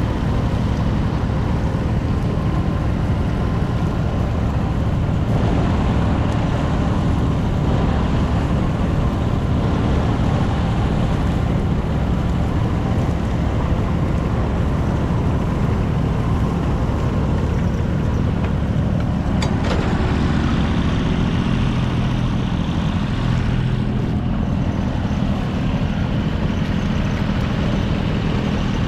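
Small three-cylinder diesel tractor engine (Yanmar KE-140, 0.7 litre) running steadily, with one brief sharp click about two-thirds of the way through.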